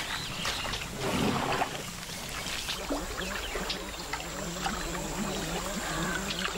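Water sloshing and splashing as large animals wade and feed in shallow water, with small splashes and rustles throughout and a fuller splash about a second in.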